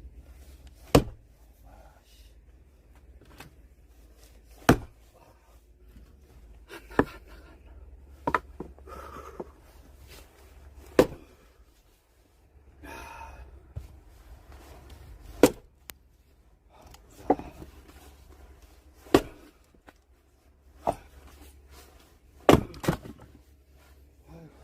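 Axe blows splitting firewood logs: about a dozen sharp, hard chopping strikes into wood, one every one to two seconds, with two blows close together near the end.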